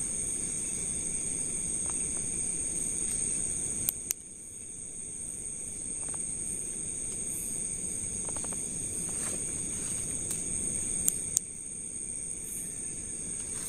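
Night-time forest insect chorus, crickets or similar, a steady high-pitched drone with several layered pitches. Two pairs of sharp clicks cut in, about four seconds in and again about eleven seconds in.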